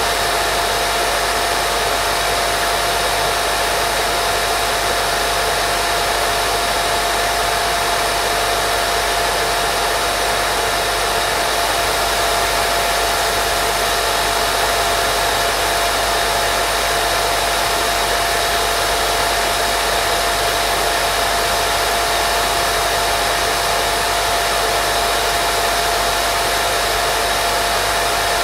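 Continuous white noise of the baby-sleep kind: an even, unchanging hiss with a thin steady tone running through it.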